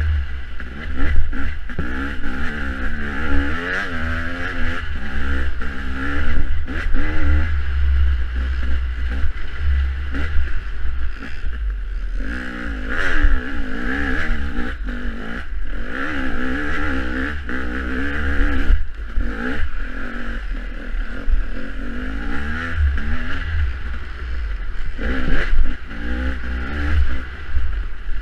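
Dirt bike engine revving up and down over and over as it is ridden hard, over a heavy low rumble.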